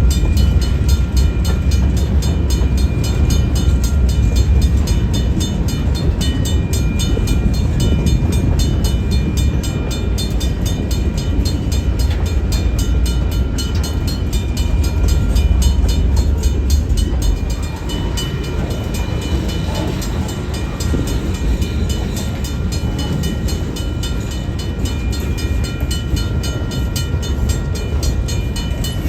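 Freight train rolling past, a steady rumble of wheels and cars on the rails that eases slightly about two-thirds of the way through.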